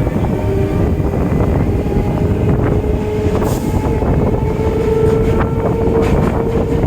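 Indian Railways EMU local train running, heard on board: a steady rumble of wheels on track with scattered clicks, and a whine that rises slowly in pitch.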